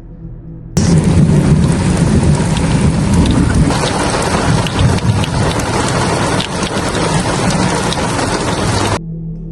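Heavy rain pouring down with a low rumble of thunder underneath, starting abruptly about a second in and cutting off near the end.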